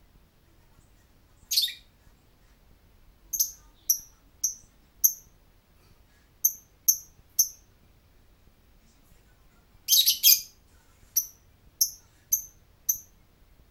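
Lovebird giving short, sharp, high-pitched chirps, mostly in runs of three or four at about two a second, with a brief denser, louder burst of calls near ten seconds in.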